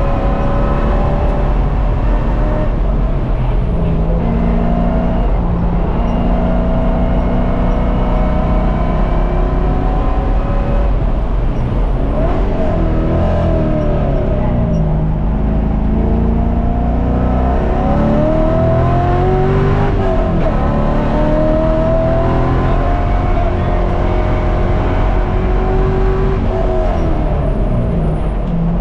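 1999 C5 Corvette's LS1 5.7-litre V8 with long-tube headers, heard from inside the cabin under hard track driving. The revs climb on full throttle and fall away sharply about halfway through and again about two-thirds through as the car slows for corners.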